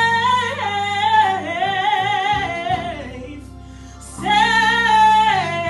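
Gospel singing: a lead voice holds long, wordless notes that bend and slide in pitch, pausing briefly near the middle before coming back in, over steady low accompaniment.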